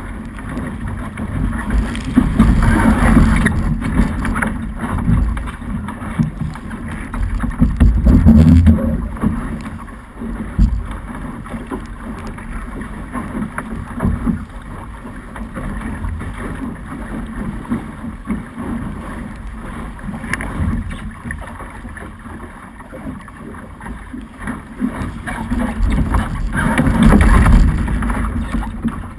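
Wind buffeting the microphone over water rushing along a Snipe sailing dinghy's hull as it sails in a fresh breeze. The noise surges louder a couple of seconds in, again around eight seconds in, and near the end.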